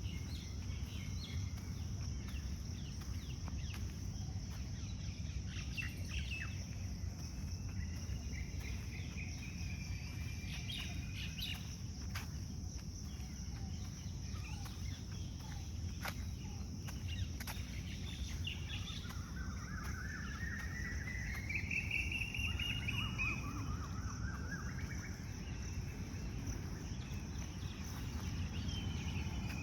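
Crickets or other insects trilling steadily while birds call on and off, with a longer run of rising bird notes about two-thirds of the way through, over a steady low rumble.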